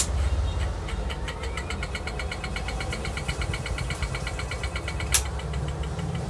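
A 36-inch ceiling fan with newly fitted bearings running with a steady low hum and a fast, even ticking through the middle, the slight noise being checked after the bearing change. Two sharp clicks come at the start and about five seconds in.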